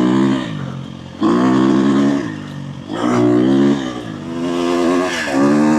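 Dirt bike engine revving in repeated throttle bursts, about four surges with the revs dropping off between them.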